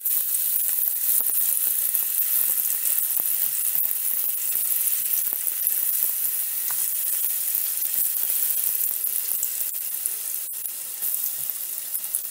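Marinated chicken pieces frying in hot oil: a steady sizzle with fine crackling, fading slightly toward the end.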